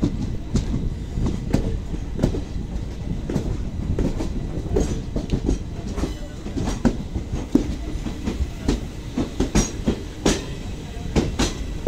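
Passenger train coaches rolling into a station, wheels clicking irregularly over the track above a steady low rumble.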